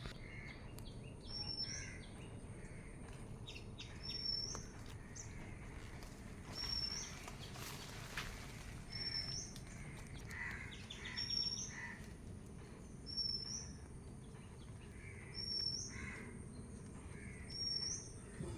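A bird repeating a short, high, upward-hooked call about every second and a half, with softer, lower chirps in between, over a faint low rumble.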